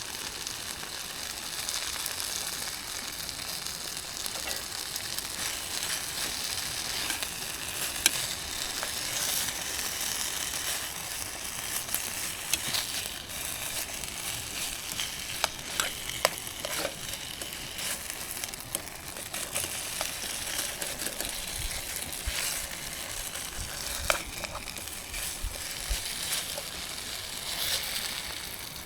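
Food sizzling in a pan: a steady crackling hiss, with a few sharp clicks or taps.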